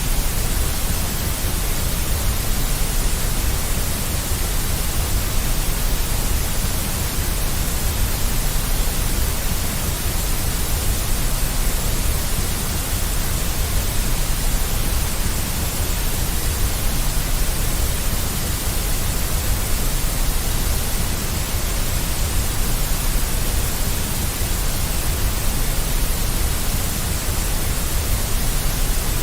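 Steady generated white noise with a strong deep rumble underneath and a bright hiss on top, even and unchanging.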